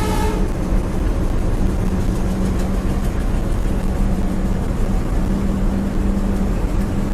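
A passing or running train: a steady low rumble with a constant hum. A horn blast dies away just at the start.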